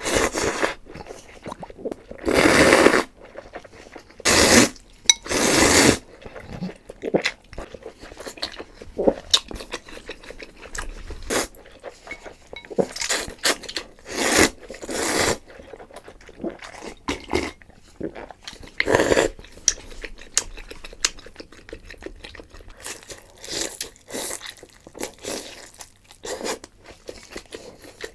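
Close-miked eating: bites, crunching and chewing come at irregular intervals. A few longer, louder bursts fall between about two and six seconds in.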